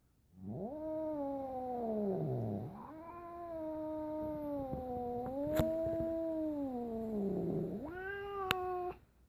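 A cat yowling in three long, drawn-out calls that slide up and down in pitch, the middle one held for several seconds. Two sharp clicks come during the second and third calls.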